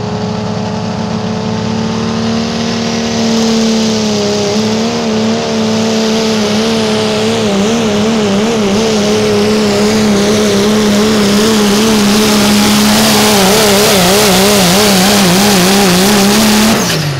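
2001 Dodge Ram pulling truck's engine held at high revs while pulling the sled. The pitch climbs slightly, then wavers up and down from about four seconds in as the truck bounces down the track. Near the end the revs fall away suddenly as the driver lets off.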